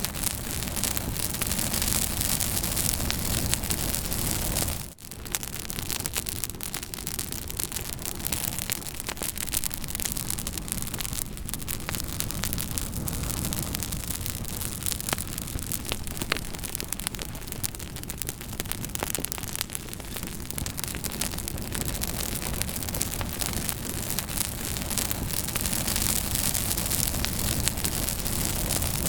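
Campfire burning: a steady rushing noise with frequent sharp crackles and pops of burning wood. The sound drops out for a moment about five seconds in.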